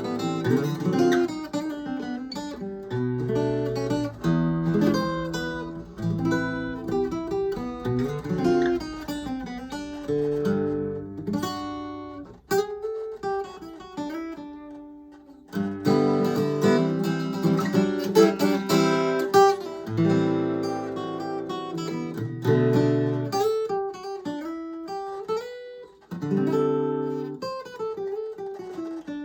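Acoustic guitar playing a melody of picked notes and chords, with some notes sliding in pitch and a softer, sparser stretch about halfway through.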